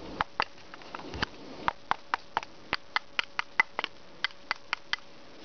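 A run of sharp metallic clicks and taps, about three or four a second and unevenly spaced, as the antique Lehnartz brass Turkish coffee mill is handled and opened after grinding.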